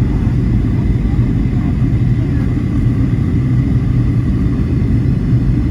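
Airliner cabin noise in flight: a steady low rumble of jet engines and rushing air, with a faint steady high whine.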